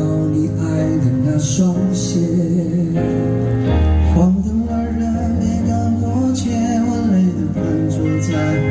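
Live band playing the instrumental intro of a slow Mandopop rock ballad: a held, wavering melody line over steady bass and chords.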